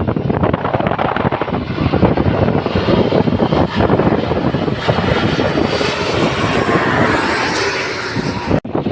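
Airliner passing low overhead on its landing approach: a loud engine roar with a rising high-pitched whine that peaks about seven seconds in, then cuts off abruptly just before the end.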